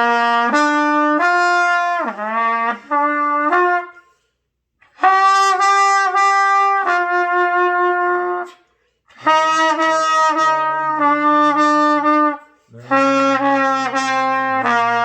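Trumpet playing the do-mi-sol arpeggio in four phrases of held notes, separated by short pauses. In the last two phrases a lower tone sounds underneath.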